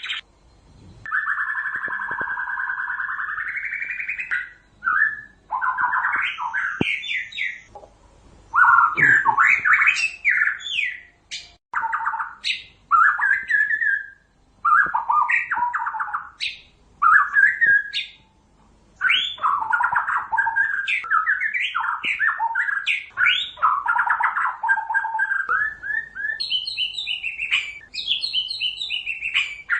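White-rumped shama singing a long, varied song of quick whistled phrases and trills broken by short pauses. It opens with one drawn-out harsh note held for about three seconds.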